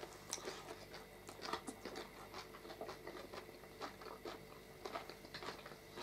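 People chewing food: a scatter of faint, short mouth clicks and smacks, several a second.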